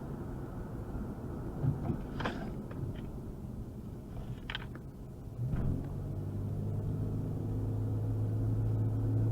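Car being driven, with engine and road rumble heard from inside the car and a few short clicks. About halfway through, a steady low engine hum sets in and grows louder until the sound cuts off.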